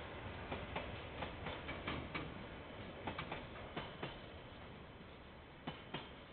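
Train wheels clicking over rail joints: an irregular run of sharp clicks that thins out and fades as the end of the train passes, with two last clicks near the end.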